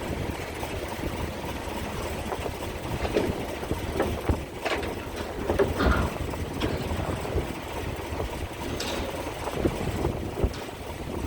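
Low, steady rumble of a ferry's engines with wind buffeting the microphone, broken by irregular knocks and clanks, several of them between about four and six seconds in.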